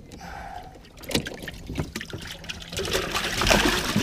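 Water trickling and splashing, with a couple of sharp knocks early and the splashing swelling about three seconds in.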